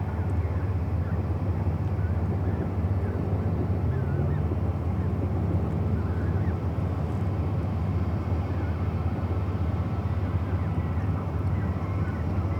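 Riverside ambience: a steady low rumble, with faint short bird calls now and then above it.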